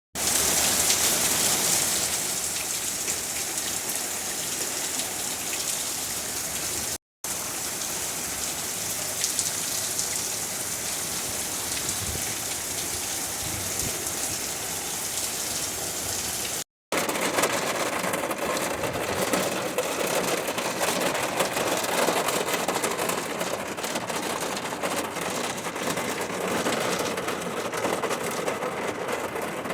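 Steady rain falling. The sound cuts out to silence twice for a moment, and after the second cut it carries on lower in pitch, with less hiss.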